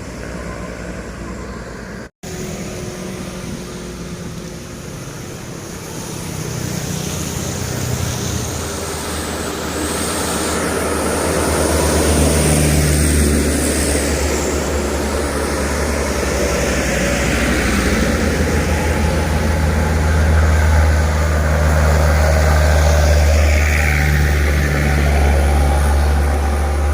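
Heavy diesel truck engine straining slowly up a steep climb under a heavy load, with a deep steady drone that grows louder as the truck draws near and passes close by. Tyre hiss on the wet road runs along with it.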